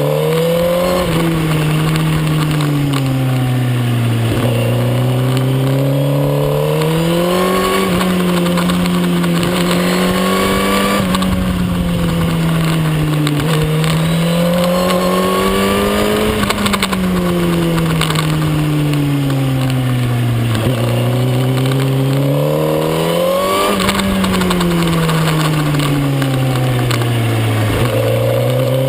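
Suzuki GSX-R1000 K9's inline-four engine under hard acceleration and deceleration on track. Its pitch climbs through the gears and drops back about five times as the bike accelerates, shifts and brakes for corners, with wind rushing past.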